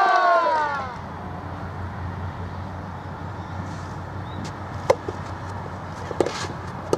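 A drawn-out shout with falling pitch dies away in the first second, then background crowd noise with three sharp knocks of a soft-tennis ball struck by racket, the last near the end.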